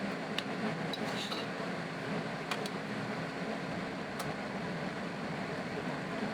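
A few light metallic clinks and taps from tools or parts being handled, over a steady shop hum; a low hum in the background stops about four seconds in.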